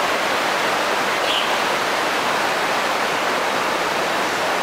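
Flooded mountain stream rushing: a steady, loud roar of fast water with no let-up.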